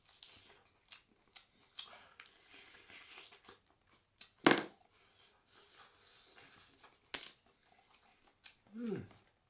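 Close-miked eating sounds: wet chewing and lip smacking with a string of sharp clicks, the loudest about halfway through, and a short voiced sound near the end.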